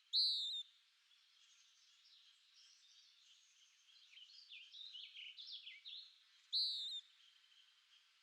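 Wild birdsong: one bird gives two loud, clear half-second calls about six seconds apart, and between them a quieter bird sings a quick run of falling notes, over a faint background of distant bird and insect sound.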